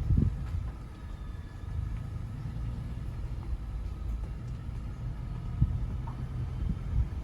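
Low, steady rumble of a vehicle driving, heard from inside the cabin, with a thump just after the start and another at the very end.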